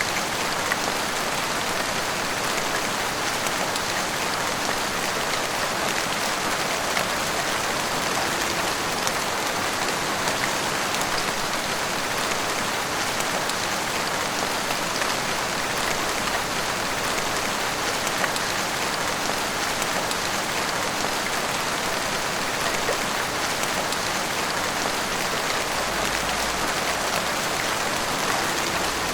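Heavy rain falling steadily, a dense even hiss of rain pattering on roofs and the street, with small drip ticks scattered through it.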